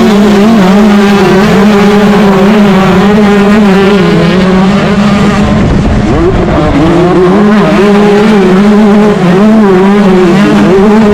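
Yamaha YZ125 two-stroke motocross engine run hard at racing revs, its pitch rising and falling with the throttle, with a brief drop in revs about six seconds in.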